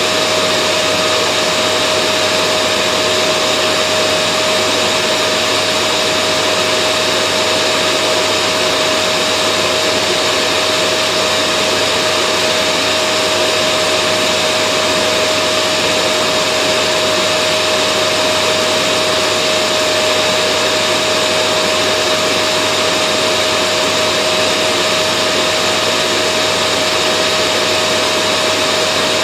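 Vacuum cleaner running steadily: an even motor hum and rush of air with a constant whine, unchanging throughout.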